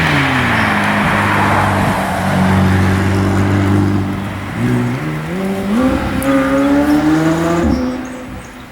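A car's engine driving past the meet. Its pitch falls as the throttle lifts at the start, holds steady for a few seconds, then climbs as it revs up from about halfway, and drops off and fades near the end.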